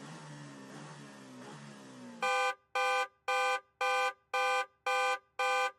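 Quiz countdown timer running out: a soft low hum gives way, a little over two seconds in, to loud repeated electronic alarm beeps, about two a second.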